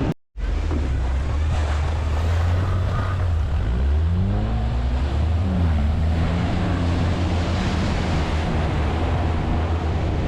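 T-REX quad bike engine running while riding, its pitch rising and falling with the throttle around the middle. Wind noise on the microphone.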